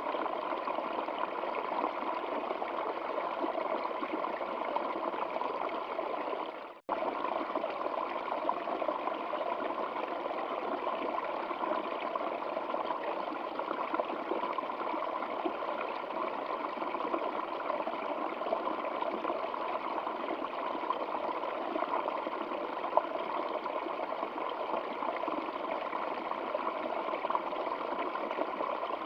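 Stream water flowing in a steady, even rush with trickling. The sound dips away and cuts back in for an instant about seven seconds in.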